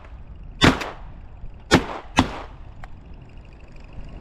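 Shotgun volley from two duck hunters firing at incoming mallards: a quick pair of blasts about half a second in, then two more shots near the two-second mark. A faint click follows.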